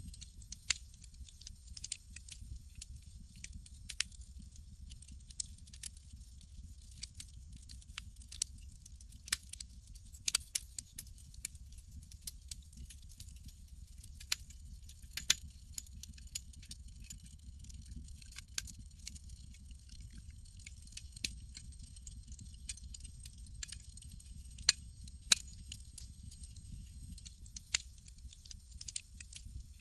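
Campfire crackling: irregular sharp pops and snaps, roughly one every second or so, over a steady low rumble and a faint high hiss.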